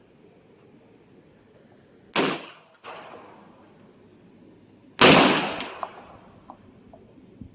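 Two pistol shots about three seconds apart, the second louder and trailing off into the surroundings, with a fainter report just after the first.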